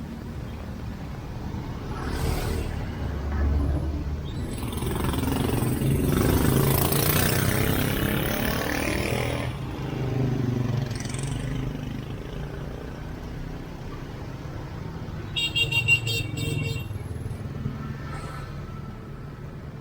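Road traffic: vehicles pass one after another, the loudest swelling up and fading a few seconds in. Around sixteen seconds in, a short, high-pitched pulsing sound rises over the traffic.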